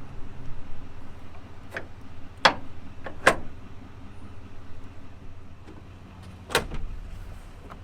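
Steady low hum of a pickup truck's 6.6-liter turbodiesel V8 idling, with a few sharp clicks or knocks, the loudest about two and a half, three and a half and six and a half seconds in.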